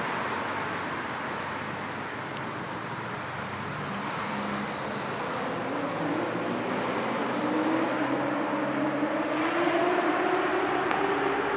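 City street traffic: a steady wash of tyre and engine noise from passing cars, with one vehicle's engine rising in pitch as it accelerates in the second half, growing louder toward the end.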